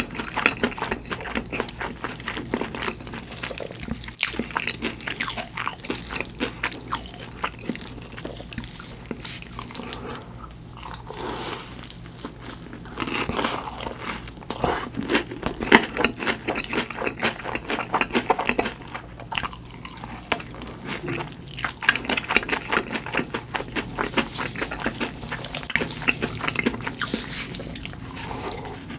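Close-up chewing of crispy deep-fried food: a dense, irregular run of crunches and crackling bites, with a few sharper loud crunches around the middle.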